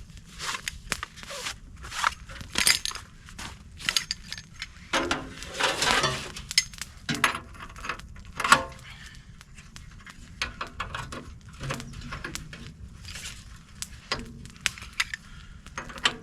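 Irregular metallic clinks and clanks of a small tent stove being handled as its legs are set and its parts fitted, with a longer rustle about five to six seconds in.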